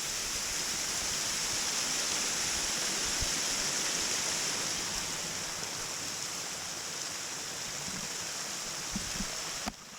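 Steady rushing of water at a waterfall. The sound drops away suddenly near the end.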